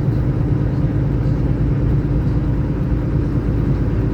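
Semi-truck engine and road noise while driving: a steady low drone with a steady hum running through it.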